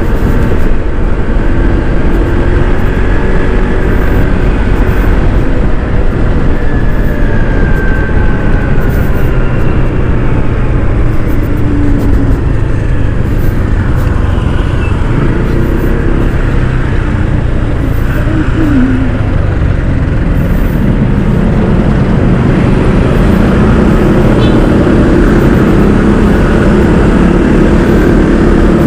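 Honda ADV 160 scooter's single-cylinder engine running on the move, under a loud, steady rush of road and wind noise, with engine pitch gliding up and down as it speeds up and slows.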